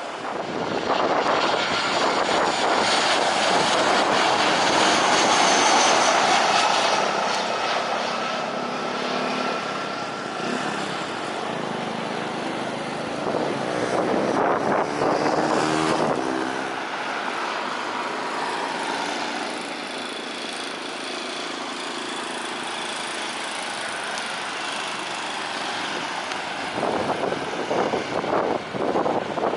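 Jet airliner engines running with a whine over a loud rushing noise, swelling to a peak about five seconds in, then fading as the aircraft moves off.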